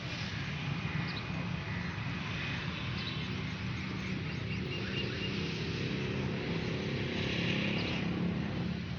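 A steady engine drone, growing a little stronger in the second half, over outdoor background noise.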